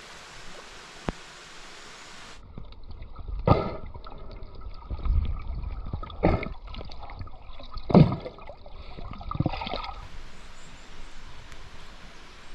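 Mountain stream water flowing, then a muffled stretch with four sloshing splashes, the loudest about eight seconds in, then flowing water again.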